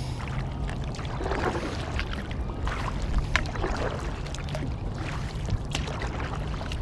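Kayak paddle strokes, the blades dipping and splashing in the water again and again, over a low rumble of wind on the microphone.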